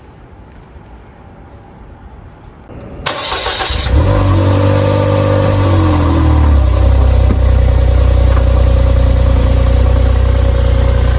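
Suzuki Jimny's engine is started: a brief crank about three seconds in, then it catches, revs briefly and settles into a steady idle.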